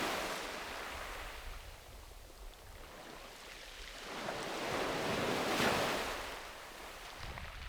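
Sea waves washing up on a beach. One wash fades out over the first couple of seconds, and the next swells about four seconds in and ebbs away again near the end.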